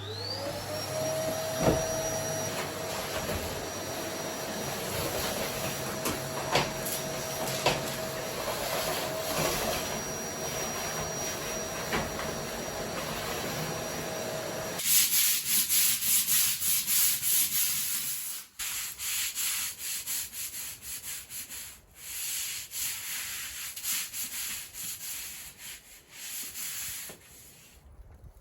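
A small electric scrubbing tool's motor spins up and runs steadily over a rubbing noise. After about fifteen seconds it cuts off, and quick, repeated scrubbing strokes follow.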